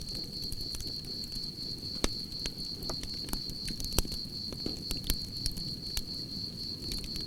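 Campfire crackling, with sharp pops over a low steady rush of flames; the loudest pops come about two and four seconds in. Crickets chirp throughout in a continuous high trill.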